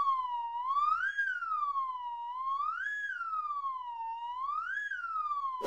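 A smooth, siren-like wailing tone that slowly rises and falls, cresting about every two seconds, three times over. A sharp click comes at the very end.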